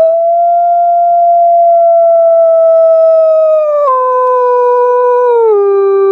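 A puter pelung dove giving the strange call that its owner calls frightening: one long, unbroken howl-like note. It starts suddenly, holds steady, then drops in pitch in two steps, about four and five and a half seconds in.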